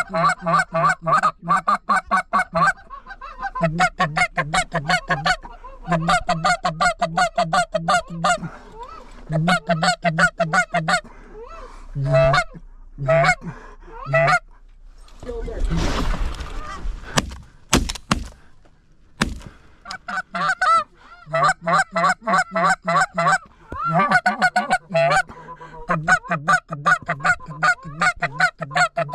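Goose calling: rapid runs of honks and clucks, several a second, in bursts of one to three seconds with short pauses between. Around the middle a brief rush of noise and a few sharp clicks break the calling.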